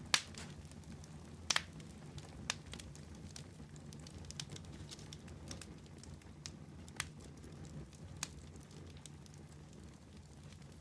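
Wood campfire burning, with a steady low rumble and irregular sharp crackles and pops as the wood burns.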